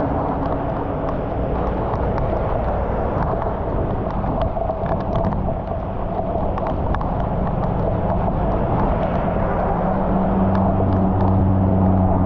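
Heavy rain falling on a flooded street, with scattered small splashes and clicks as debris is cleared from a clogged drain. A steady low hum comes in near the end.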